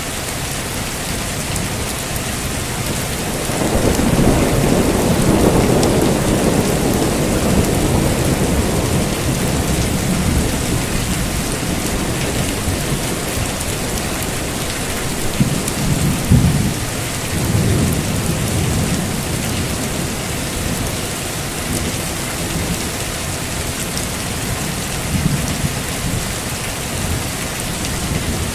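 Steady heavy rain with rolling thunder: a long low rumble swells in a few seconds in and fades over several seconds, with smaller rumbles around the middle and near the end.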